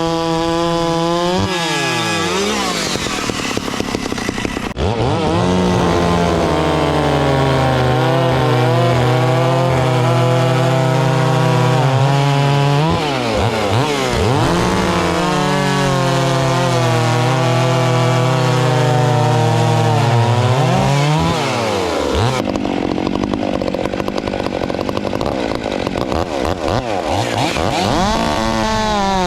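Two-stroke chainsaw running hard at high revs, its pitch sagging and recovering. Three times the revs drop away and climb back up.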